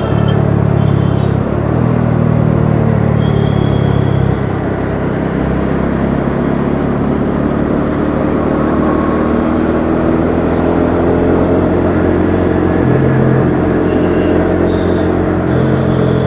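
Bajaj Dominar 400's single-cylinder engine running under way in traffic, its note strong for the first four seconds, then easing and picking up again near the end, over wind and road noise.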